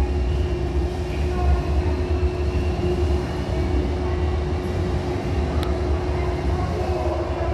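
A Hankyu electric train running past on the next track: a steady low rumble with a faint motor whine over it, heard through an open train door. A steady hum from the standing train continues underneath, and there is a single sharp click a little past halfway.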